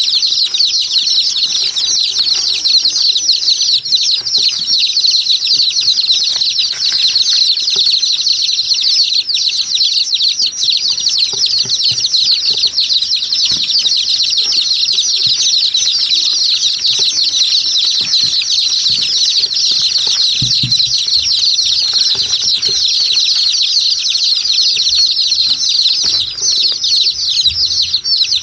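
Dense, continuous chirping of a large flock of small birds, many short high calls overlapping without a break.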